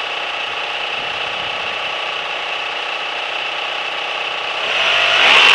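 Mitsubishi 4G63 2.0-litre inline-four engine running steadily at idle, freshly fitted with a new timing belt and spark plugs. The revs start to rise near the end.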